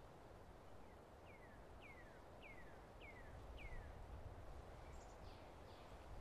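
Faint bird song: a run of about six falling whistled notes, evenly spaced about half a second apart, then a couple of fainter ones near the end, over a low steady background rumble.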